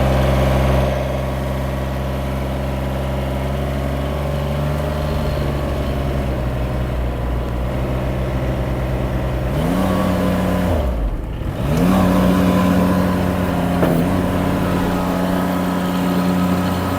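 Kubota diesel engine of a mini skid steer running steadily; about ten seconds in its speed rises, drops away, then picks up again and holds at a higher pitch.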